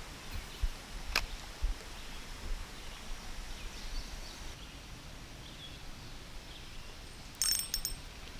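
Outdoor creek ambience with low bumps of handling or wind on the microphone, a sharp click about a second in, and a brief metallic jingle near the end.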